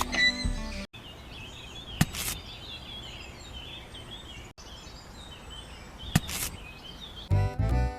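Birds chirping over a steady outdoor hiss, broken by two quick whooshes, one about two seconds in and one just after six seconds. Music cuts in near the end.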